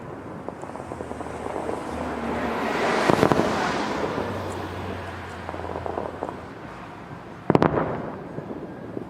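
Aerial fireworks bursting and crackling: a swell of crackle that peaks about three seconds in with a sharp bang, another loud bang about seven and a half seconds in, and scattered smaller pops between.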